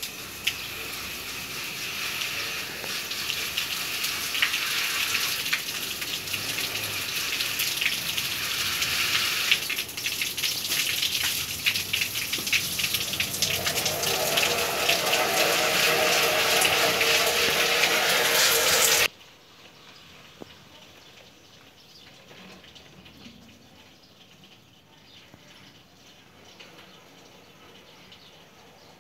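Water jet spraying onto an air conditioner's indoor unit to rinse off the cleaning chemical: a steady hiss that grows louder, then cuts off abruptly about 19 seconds in.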